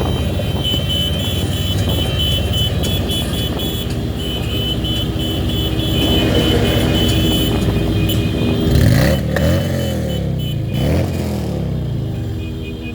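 Motorcycle engines running in a large moving group, with an engine revving up and down between about eight and eleven seconds in. A high repeated beeping runs through the first half.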